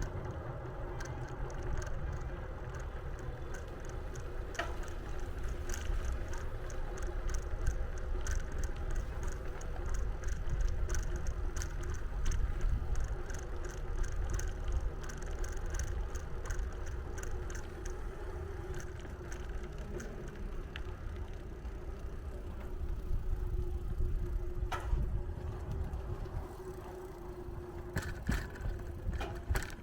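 Bicycle riding: low wind rumble and road noise under a steady hum, with a run of light, regular ticks through the middle.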